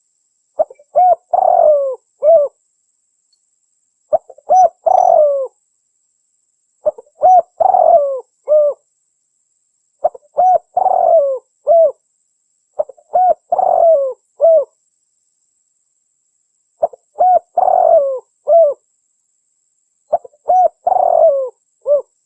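Spotted dove cooing: a phrase of a few short coos repeated seven times, about once every three seconds, with silence between. The call is a recording repeated over and over as a lure for wild doves.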